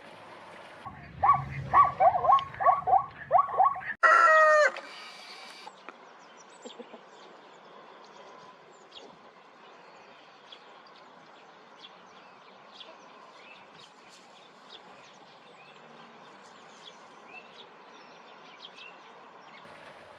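A chicken cackling: a quick run of short clucks, then one louder, drawn-out call. Faint small-bird chirps follow.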